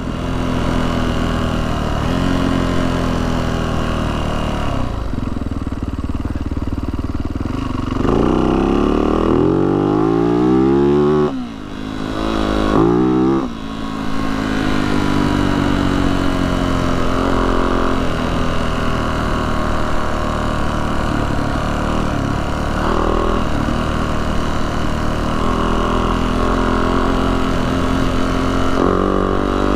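Yamaha YZ450F dirt bike's single-cylinder four-stroke engine running under way. About eight seconds in it revs up steeply, drops off abruptly, and then gives one more short rev before settling back to a steady pull.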